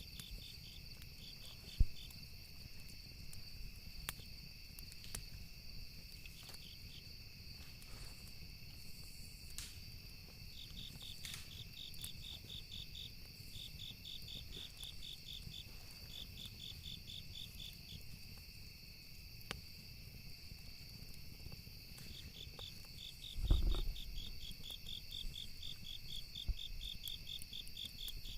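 Campfire ambience: crickets chirring steadily, with trains of rapid chirps coming and going, over scattered sharp crackles and pops of burning wood. A single low thump about 23 seconds in.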